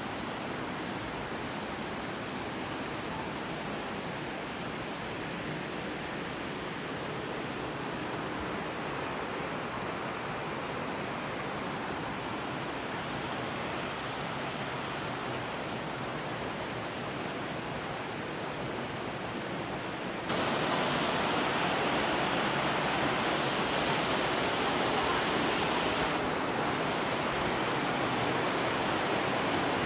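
Steady rush of falling water from a waterfall or stream, growing louder about two-thirds of the way through.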